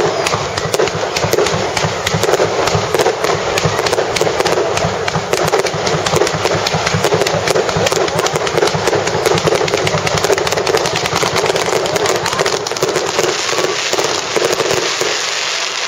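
New Year fireworks going off in a rapid, continuous crackle of many sharp pops, several a second without a break.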